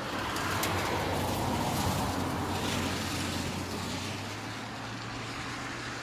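Road vehicle driving: a steady low engine hum under road and tyre noise, louder for the first three seconds or so and then easing slightly.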